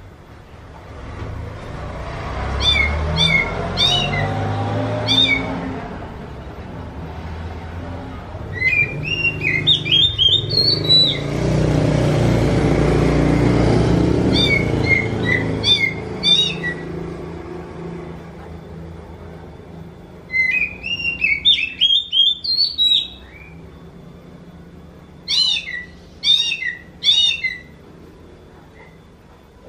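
Oriental magpie-robin (kacer) giving short mewing calls like a kitten's meow. The calls come in bursts of several notes every few seconds, over a low rumbling background noise in the first half.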